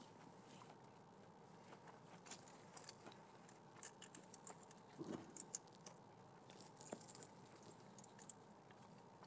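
Faint chewing and small mouth clicks of a man eating a fast-food breakfast, with scattered short clicks and a slightly louder cluster about five seconds in.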